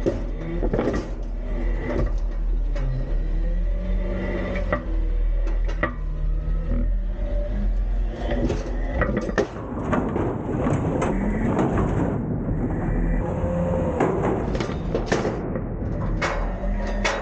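Autocar-Heil Freedom front-load garbage truck running, its engine pitch rising and falling as the hydraulics work, with repeated metal clanks and knocks from the lift arms and bins.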